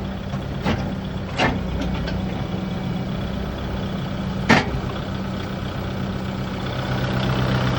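Kubota broom tractor's engine running steadily, heard from inside the cab, with a few sharp clicks, the loudest about four and a half seconds in.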